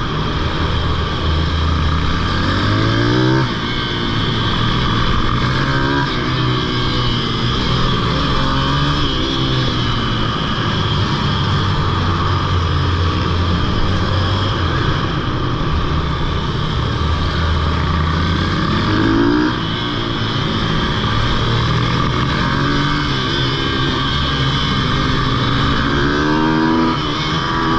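Pitbike engine being ridden hard, its pitch climbing on each acceleration and dropping back several times as the throttle is opened and closed.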